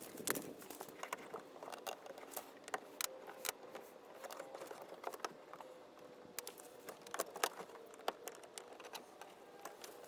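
Scattered light clicks and taps, as of small parts or tools being handled, over a faint steady hum.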